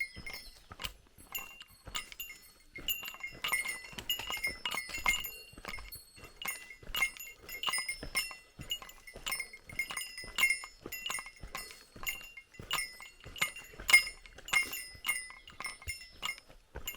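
A small bell carried by a walking hiker, jingling with each step in a quick, uneven run of bright metallic rings, a couple of times a second; it is typical of the bear bell worn on Japanese mountain trails.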